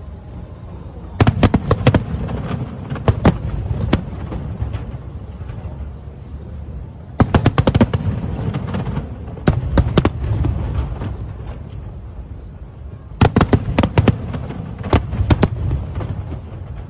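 Fireworks going off in rapid volleys of sharp bangs, several salvos a few seconds apart, with a low rumble of booms between them.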